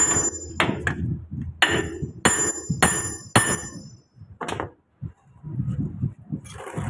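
Hammer blows on steel truck parts, each with a bright metallic ring. About eight strikes come at uneven intervals over the first four and a half seconds, then stop.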